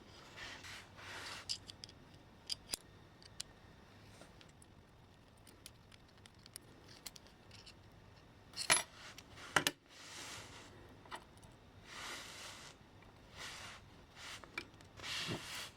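Small metal parts and tools clicking and clinking as they are handled, with short rustling scrapes in between; two sharper metallic clinks about halfway through are the loudest.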